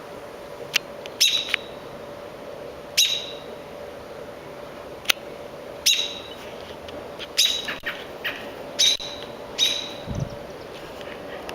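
A bird's short, sharp chirp calls, high-pitched and repeated about ten times at irregular intervals of one to two seconds. A steady faint hum runs underneath, and a low thump comes near the end.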